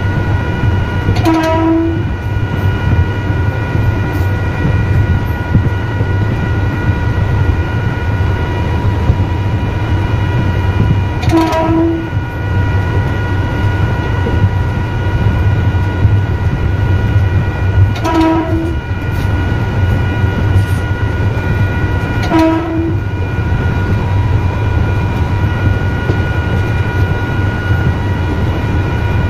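Electric train running, heard from the driver's cab: a steady low rumble with a constant multi-tone whine over it. Four short tonal notes sound at uneven intervals, about half a second each.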